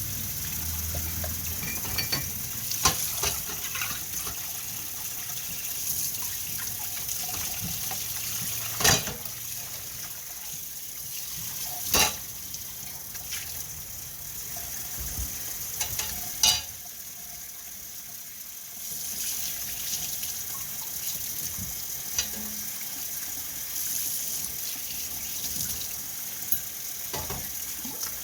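Kitchen cooking sounds: a steady hiss with a brief lull around the middle, broken by several sharp clanks of utensils and cookware, two of them louder than the rest.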